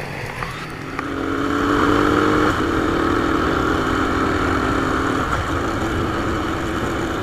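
Motorcycle engine running under way. Its note grows louder about a second in and then holds steady, dipping slightly in pitch a couple of times.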